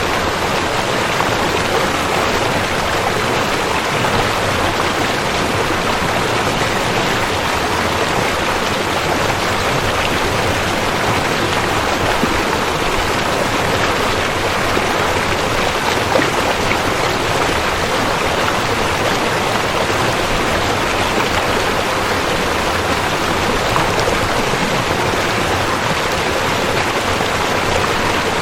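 River water flowing over rocks, a steady, even rushing with no breaks.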